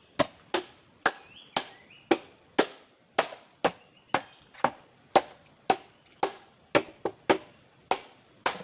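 Steady chopping into wood with a blade, about two sharp strikes a second, kept up without a break.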